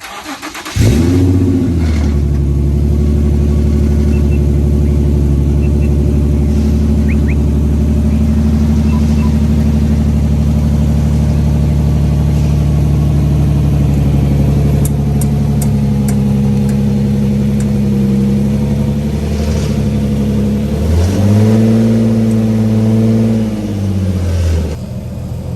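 Nissan 350Z's V6 engine starting about a second in, catching with a quick flare in revs, then idling steadily. Near the end it is revved up once and settles back to idle.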